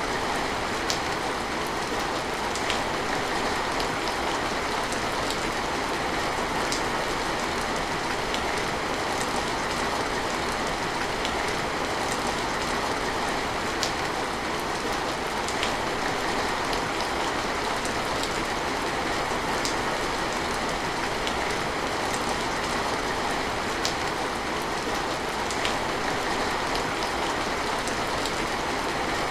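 Steady rain falling, with scattered sharper drop ticks over an even wash.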